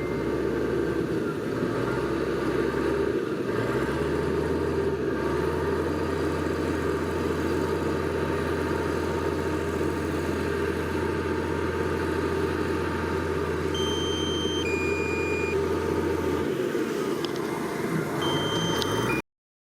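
Heavy construction machine's diesel engine running steadily with a deep drone, with a few short high beeps near the end before the sound cuts off suddenly.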